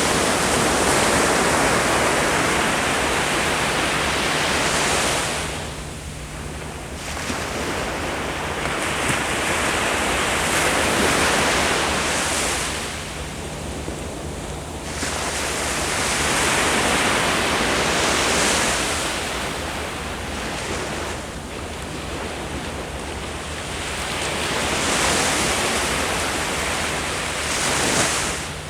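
Ocean waves breaking on the shore in long surges that swell and ebb roughly every six to eight seconds, with some wind on the microphone.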